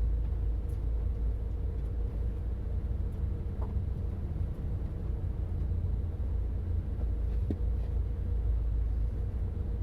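A car driving slowly, a steady low rumble.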